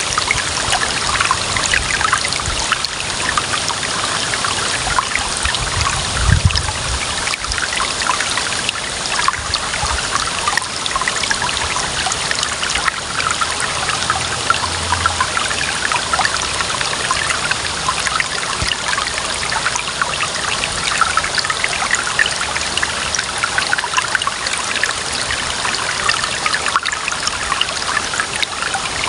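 Clear running water splashing and trickling steadily over stones, a small stream or spill of water. A brief low thump rumbles under it about six seconds in.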